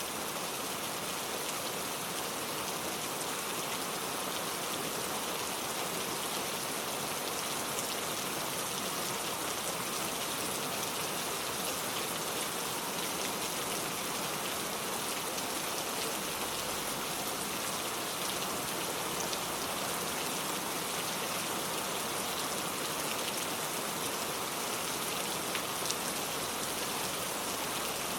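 Steady rain falling in a forest, an even hiss with many small drop ticks on leaves and surfaces.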